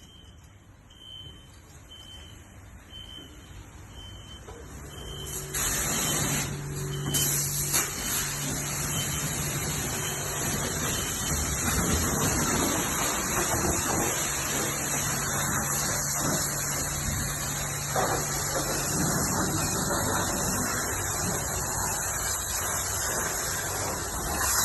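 Self-serve car wash: a short electronic beep repeating about one and a half times a second, then about five seconds in a high-pressure wash wand starts spraying with a loud, steady hiss over a low steady hum.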